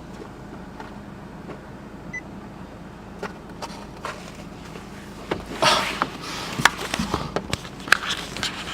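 Handling noise of a camera being set up inside a car: a faint steady hum, then from about five seconds in a series of sharp clicks, knocks and rustles as the camera is moved and positioned.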